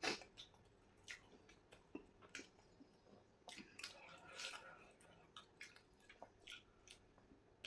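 Faint wet chewing and mouth clicks of a person eating a soft, milk-soaked rava laddu, with irregular small smacks and a slightly longer, louder patch about four seconds in.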